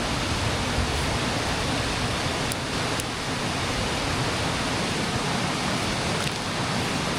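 Mountain creek water rushing steadily, with a couple of faint clicks a few seconds in.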